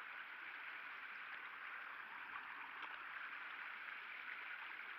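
Faint, steady rush of running water, with a couple of small ticks.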